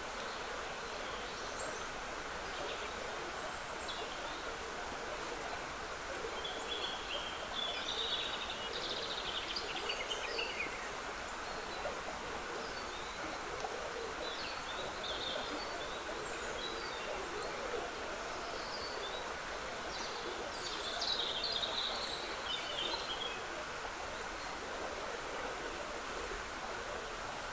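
Woodland stream trickling steadily, with songbirds singing short phrases on and off, most clearly about eight seconds in and again about twenty seconds in.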